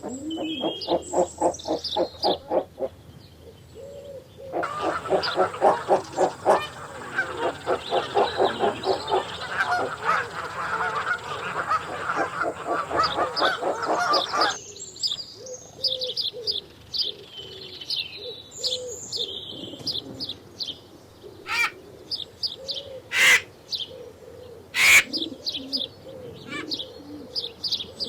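Birds calling: a quick run of repeated notes, then about ten seconds of dense, rapid calling that stops abruptly, followed by scattered high chirps and low, soft calls.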